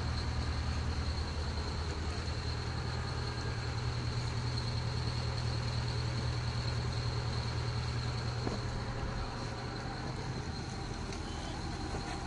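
The boat's engine running steadily, heard from on board: a low pulsing hum, with a thin steady high whine above it.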